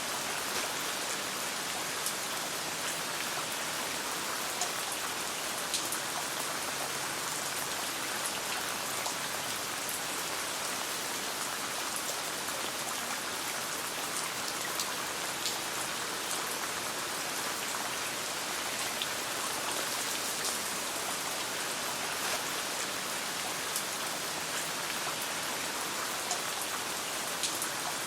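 Steady rain falling, with scattered faint sharp ticks of individual drops or small pops among the even hiss.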